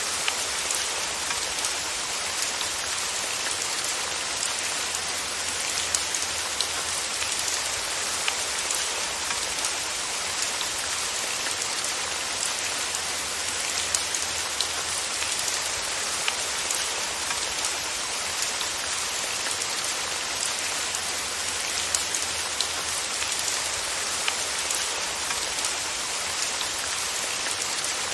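Steady rain falling, a constant hiss with scattered sharp drop ticks throughout.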